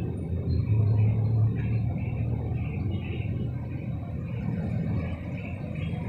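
A bird calling in a run of short repeated notes, about three a second, over a steady low rumble.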